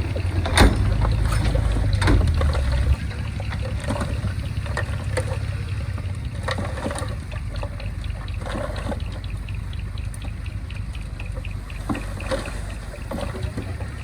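A bulldozer's diesel engine running steadily, louder for the first three seconds and then settling lower. Irregular clanks and knocks of metal and earth are scattered through it.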